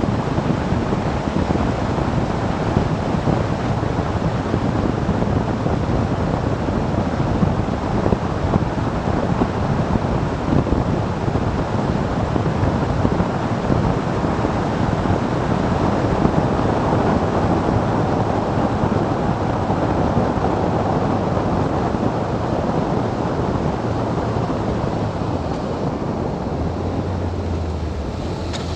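Wind rushing over the microphone of a riding motorcycle, a steady loud noise with the bike's engine underneath. Near the end the rush eases a little and a low engine hum comes through more plainly.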